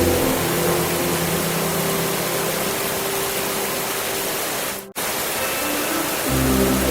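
Steady heavy rain, an even hiss, with soft sustained music tones beneath it. The sound drops out for an instant about five seconds in, and deep music tones come back near the end.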